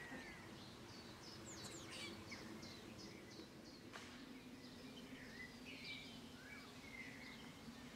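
Faint birdsong: small birds chirping, one giving a quick run of about seven short repeated high notes, over a faint low steady hum.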